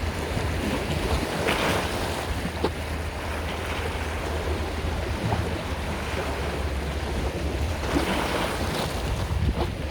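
Sea waves breaking and washing on the shore, with a steady low rumble of wind on the microphone; waves swell up about a second and a half in and again near the end.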